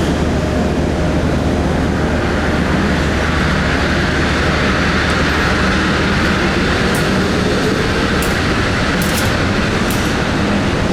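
Tokyo Monorail train running past: a steady rush of rubber tyres on the guideway over a low motor hum, swelling in the middle, with a few sharp ticks in the second half.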